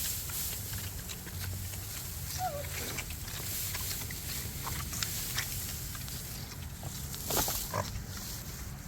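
Farm animals heard close by: scattered small noises and clicks, a brief call about two and a half seconds in, and a louder short noise past the seven-second mark.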